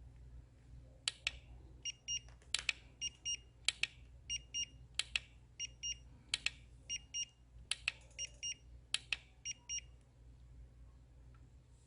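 An electronic alarm or beeper sounding repeated pairs of short, high beeps, alternating with pairs of sharp clicks, then stopping about nine and a half seconds in. A low steady hum runs underneath.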